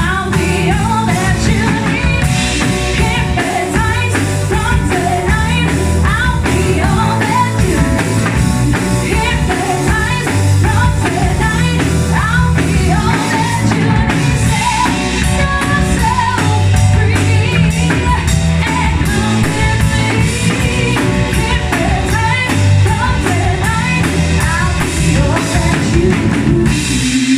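Live band playing a song, a lead singer over drum kit and band.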